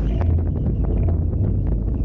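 Steady, heavy wind buffeting the microphone of a Hobie Tiger F18 catamaran's onboard camera while under sail: a deep rumble with crackly gusts over it.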